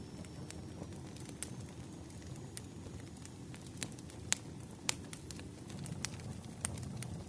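Campfire burning: a steady low rush of flames with irregular sharp crackles and pops from the wood, two louder pops a little past the middle.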